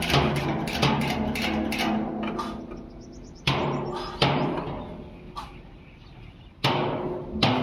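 Hammer blows on sheet steel from old oil drums, each strike ringing. A quick run of blows, about four a second, gives way after about two seconds to single blows roughly a second apart.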